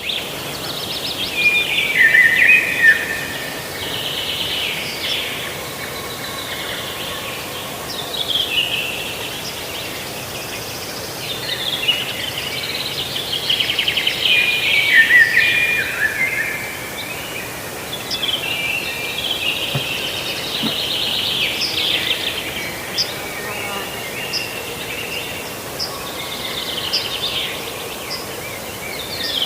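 Songbirds singing, many short trilled and sweeping phrases overlapping almost without pause, over a steady background hiss.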